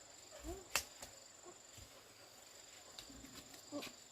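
Steady high insect trill running throughout, with one sharp knock under a second in and a few fainter clicks later. A brief voice sound comes just before the knock.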